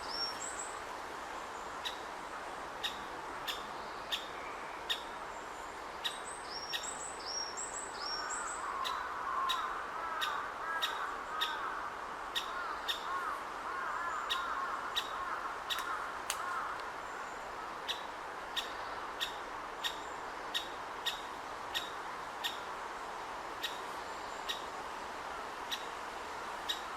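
Great spotted woodpecker chick calling from the nest hole while it waits to be fed: short, sharp calls repeated about once or twice a second, with quick runs of higher, downward-hooked notes at the start and about seven seconds in. A lower chattering from other birds runs underneath from about eight seconds in until about halfway through.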